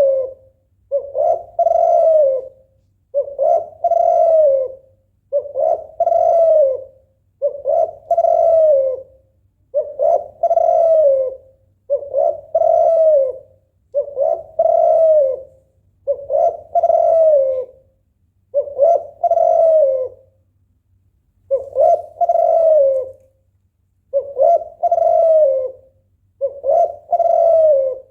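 Female spotted dove in breeding condition cooing over and over, a short note then a longer falling coo, about once every two seconds with one brief pause about two-thirds of the way through. This is the hen's call to rouse a male into singing.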